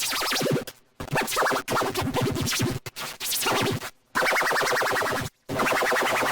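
Cartoon voice-and-music clip mangled by video-editing effects: chopped into about five bursts with sudden cut-offs, pitch-shifted into unintelligible, scratch-like warbling. The last two bursts turn to steadier buzzing, robotic tones.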